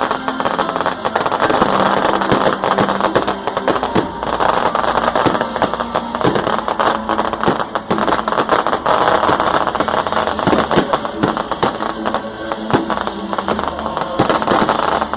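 Fireworks crackling and popping in a dense, continuous stream of sharp cracks, with music playing underneath.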